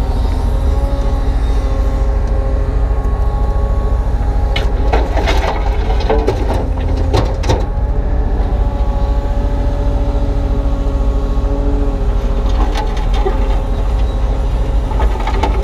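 Kubota U35-3 mini excavator's diesel engine running steadily under hydraulic load while the bucket digs, with a cluster of sharp knocks and scrapes about five to seven seconds in and a few more near the end.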